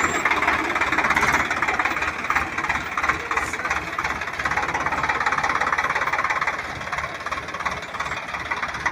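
Swaraj tractor diesel engines running hard under load with a rapid, steady knocking beat, straining to tow a heavy trolley stuck in mud; the level eases slightly near the end.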